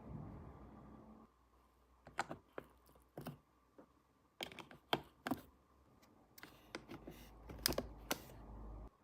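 Small plastic toy pieces clicking and tapping as they are handled, in irregular clusters of sharp clicks. A low background hum drops out about a second in and returns in the last few seconds.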